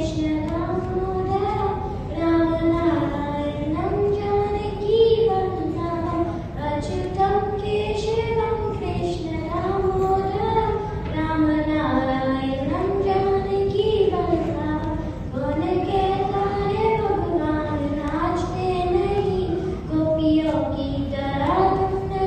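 A child singing a melody in a high voice, holding notes and stepping up and down between them.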